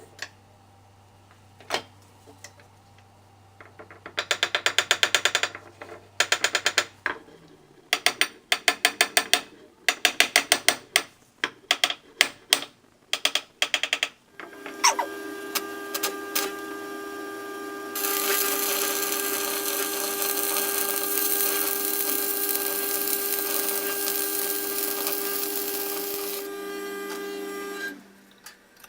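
Several short bursts of rapid clicking, then a workshop machine tool's motor starts with a steady hum. A few seconds later a loud cutting noise rises over the hum, runs for about eight seconds and stops, and the motor runs down soon after.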